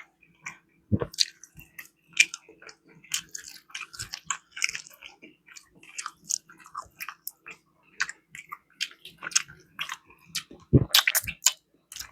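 Close-up chewing and mouth smacking: a person eating barbecue chicken, with wet, irregular smacks and a few louder bites about a second in and near the end.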